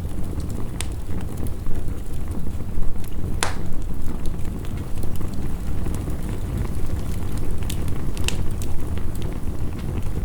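Wood fire crackling with scattered sharp pops, the loudest about three and a half seconds in, over the steady low rush of heavy rain.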